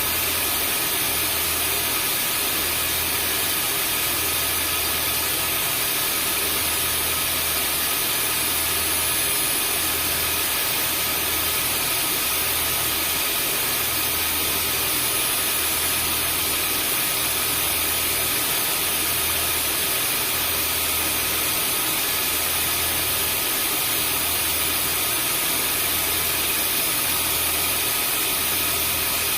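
Vacuum cleaner motor running steadily, a dense rushing noise with a high motor whine and a low hum that throbs slowly.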